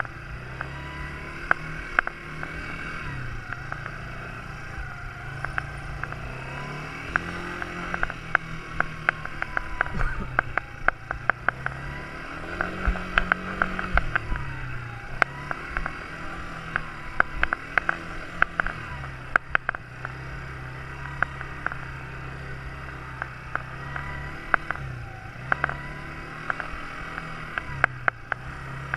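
Quad bike engine running with its revs rising and falling again and again, over many sharp clicks and knocks that are densest in the middle.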